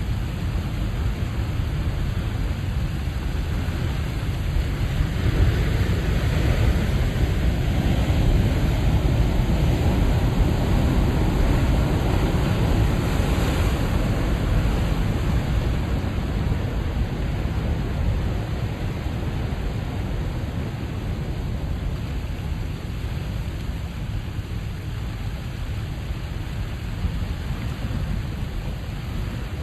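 Ocean waves breaking and rushing: a steady roar of surf that swells about five seconds in, is loudest through the middle, then eases off.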